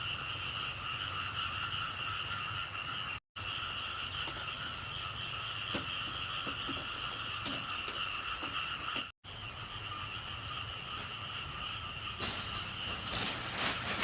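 A dense, steady chorus of frogs calling, typical of frogs after heavy rain. The sound cuts out for an instant twice, and near the end a louder rushing noise with crackles comes in over the chorus.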